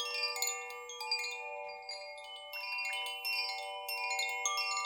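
Chimes struck over and over, many bright overlapping notes ringing on above a few lower, longer-held tones.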